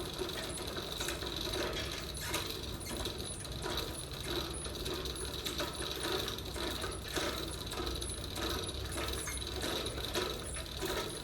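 Manual chain hoist being worked, its ratchet and pawl clicking rapidly and unevenly as it lifts an engine, over a steady low hum.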